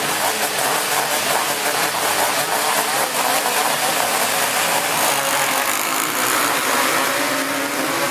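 Several racing three-wheeler ATC engines running together, loud and continuous, their pitches wavering up and down as the riders work the throttles.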